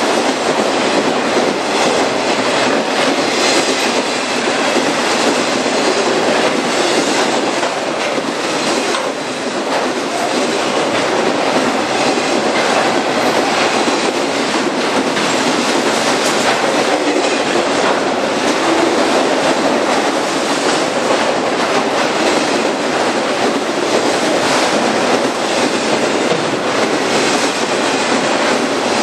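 Freight train cars rolling past at speed: steady wheel-on-rail rumble, with wheels clicking over the rail joints.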